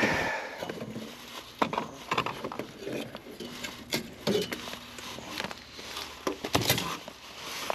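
Hand tools being moved and shuffled about in a search for dropped wire nuts: irregular light clicks and knocks of metal and plastic, with a heavier knock near the end.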